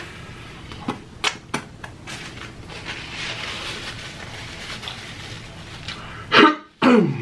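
Close-miked chewing of a fried chicken sandwich, with a few sharp crunches about a second in. Near the end come two loud sounds that fall steeply in pitch, with a brief cut-out between them.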